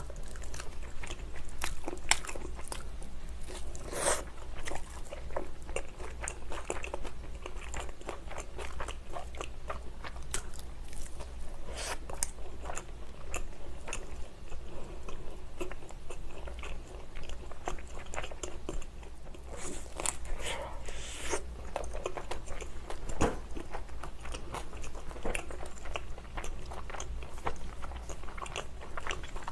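Close-miked biting and chewing of thin-crust pizza: crisp crunches of the crust among wet mouth clicks, with a few louder crunches about 4 seconds in and again around 20 seconds in.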